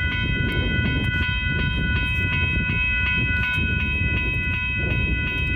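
Western Cullen Hayes electronic crossing bell ringing in quick, even strokes, about three a second, over the low rumble of a GO Transit commuter train running through the crossing.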